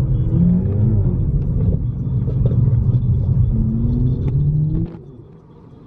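A car engine under hard acceleration, loud and rumbling, its pitch rising in two pulls. It drops away suddenly about five seconds in.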